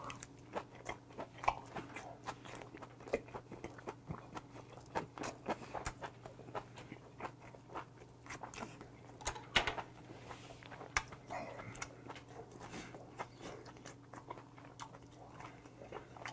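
Close-miked mouth noises of someone chewing boiled monkfish: irregular soft wet clicks and smacks, with a faint steady low hum underneath.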